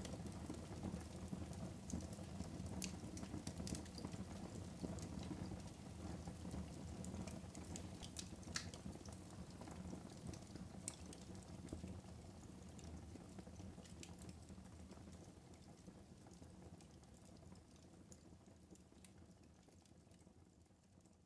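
Wood fire crackling in a fireplace, a low steady rumble of flames with scattered sharp pops, a few louder ones in the first half. The sound fades out gradually toward the end.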